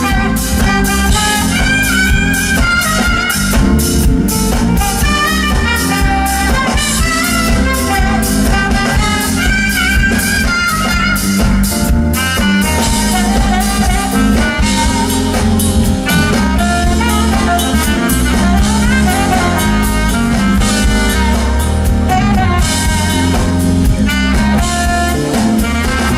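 Live smooth-jazz band playing: a saxophone carries a moving melody over a drum kit and a heavy, steady bass line.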